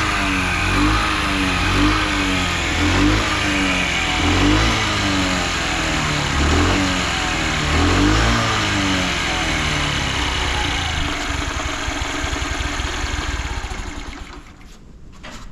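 Honda Chaly CF50's small four-stroke single-cylinder engine being blipped over and over, the revs rising and falling about every second and a half, then settling to a steady run about nine seconds in and dying away near the end. It runs without abnormal noises.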